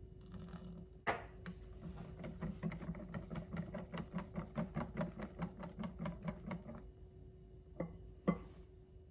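Hand whisking in a mixing bowl: a clink as it starts, then regular strokes about five a second for several seconds, then two sharp taps near the end.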